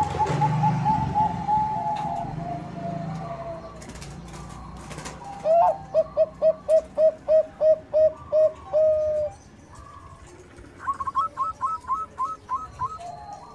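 Zebra doves (Bangkok-line perkutut) singing their staccato cooing song, in runs of short rising notes. The middle run is lower and slower, about three notes a second. A quicker, higher-pitched run follows near the end.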